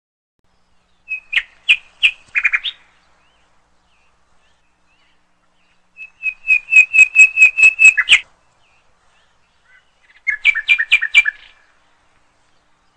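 Bird chirping in three short bursts of rapid, evenly spaced high notes, about six a second, with silence between the bursts.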